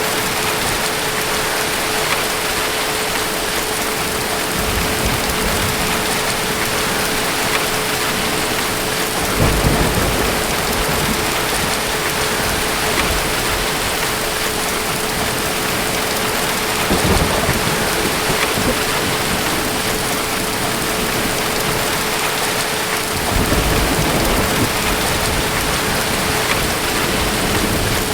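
Steady heavy rain falling, with low rumbles of distant thunder rolling in about four times. A faint steady hum runs underneath.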